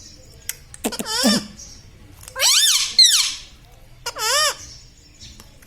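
A pet parrot giving three loud calls about a second apart, each with a quickly wavering, warbling pitch.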